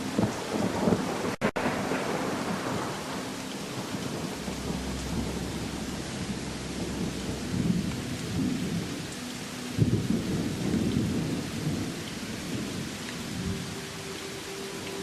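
Steady rain falling while thunder rumbles in low swells that come and go, with a brief dropout about one and a half seconds in.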